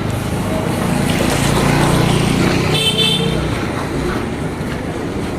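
Road traffic: a motor vehicle's engine swells as it passes, loudest about two seconds in, and a short horn toot sounds near the middle.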